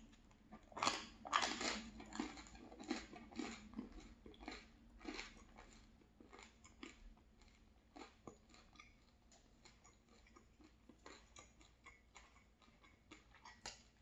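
Close-up chewing of a mouthful of crusty baguette and tomato-sauced linguine: a few loud crunches of the bread crust about a second in, then softer, irregular wet chewing clicks.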